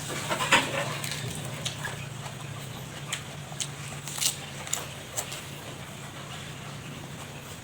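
Eating sounds: chewing with scattered sharp clicks and crunches, busier in the first second or so, over a steady low hum.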